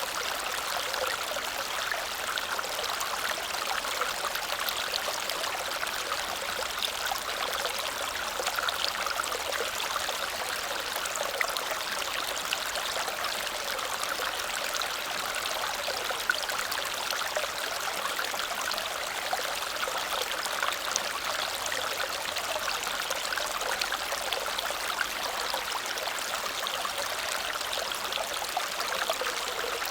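Small waterfall splashing and cascading into a stream, a steady rushing with fine crackling spatters of water.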